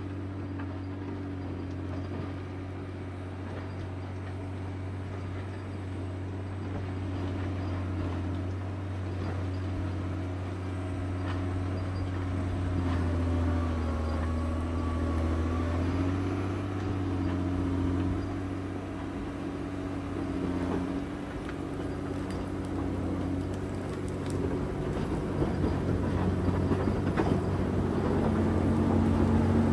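John Deere 670 motor grader's diesel engine running steadily under load, its pitch wavering slightly and getting louder near the end.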